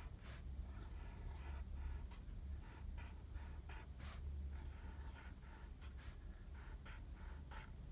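Faint scratching of a pen writing: short strokes at irregular intervals over a low steady hum.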